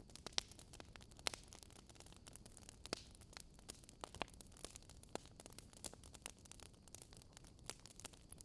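Wood fire crackling faintly: irregular sharp pops and snaps over a low steady hiss.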